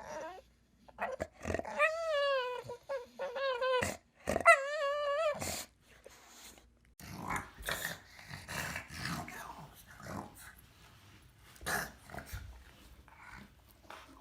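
A dog vocalizing on command. Its "roar" is three drawn-out, wavering howl-like calls in the first half, followed by quieter, rougher vocal noises.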